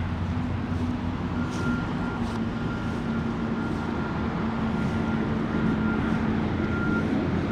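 An engine running steadily: a low, even drone with a held hum and a faint higher tone that comes and goes.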